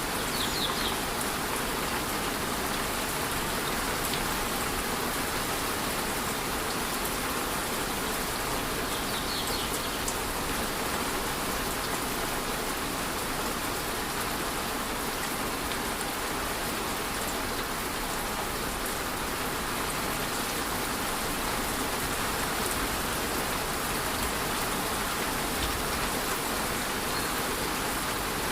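Steady rush of a rainforest waterfall mixed with light rain falling, an even, unbroken wash of water noise. A few brief, faint high chirps come through, once near the start, again about nine seconds in and near the end.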